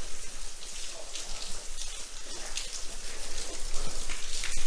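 Water dripping and pattering down like rain, with many irregular drops and splashes over a steady hiss of falling water.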